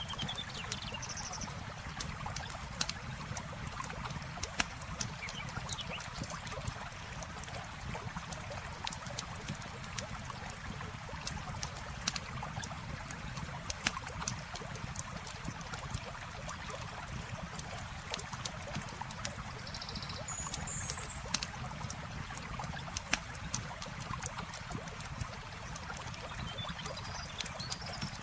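Campfire crackling with irregular pops and snaps over the steady rush of flowing river water, with a few short bird chirps near the start, about two-thirds of the way in, and near the end.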